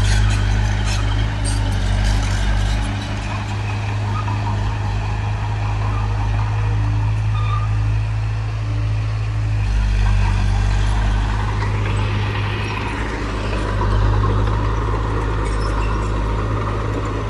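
Heavy diesel engine of earthmoving machinery running steadily with a low, even drone, swelling slightly about two-thirds of the way in, with light clanks in the first couple of seconds.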